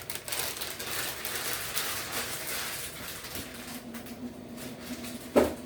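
Kitchen handling noise: a rustling hiss, then a steady low hum that starts a little past halfway, and one sharp knock near the end.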